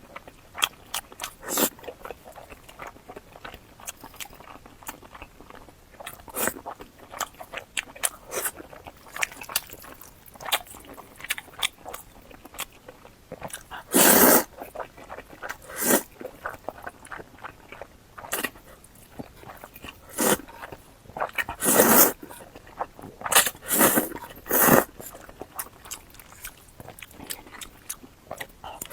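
Close-miked eating sounds of boiled dumplings and spicy fire noodles: steady wet chewing and lip smacks, with several louder bite or slurp bursts about halfway through and in the second half.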